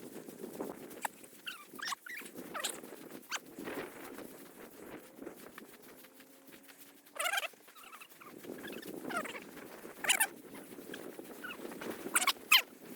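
Footsteps swishing and crackling through tall dry prairie grass, with a few sharper rustles about 7, 10 and 12 seconds in.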